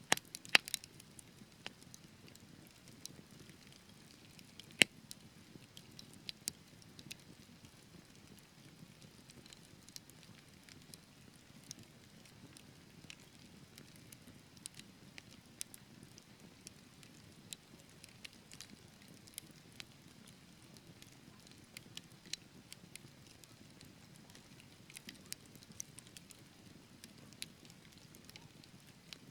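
Wood logs burning in a fireplace: scattered sharp crackles and pops over a low, steady flame hiss. The loudest pops come just after the start and about five seconds in.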